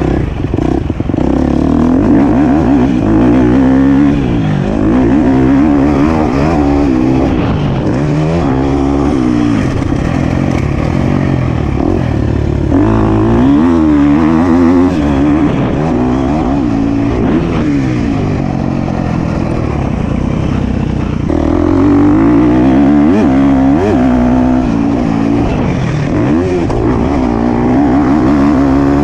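Motocross bike engine revving up and down over and over as it is ridden around a dirt track, its pitch rising and falling every second or two.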